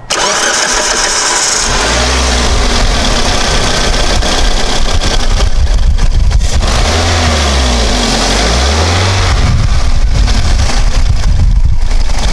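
Toyota Corolla's 1.8-litre four-cylinder engine starting and running, revved up and down a couple of times, with its cracked exhaust manifold welded back together. Wind buffets the microphone.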